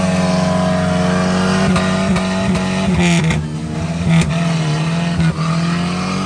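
An off-road 4x4's engine revving hard under load in mud, its pitch wavering up and down, with a short hiss about three seconds in.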